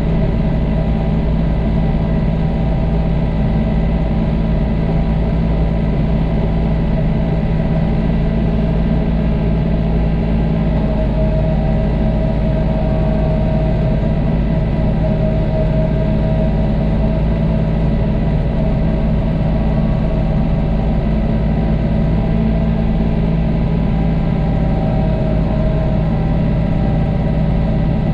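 John Deere tractor engine running steadily under load while plowing snow, a constant low hum with a higher whine that comes in about eleven seconds in and fades again.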